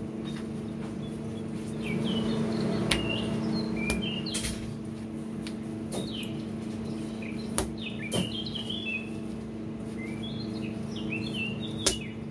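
Small birds chirping in short clusters of quick rising and falling notes, over a steady low hum. A few sharp knocks come in between.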